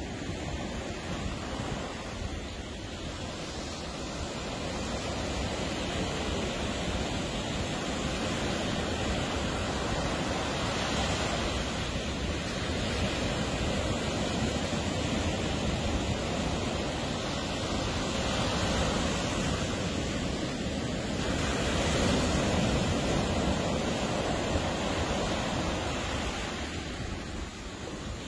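Ocean surf breaking and washing on a beach: a steady rush of waves that swells and eases over several seconds, with some wind on the microphone.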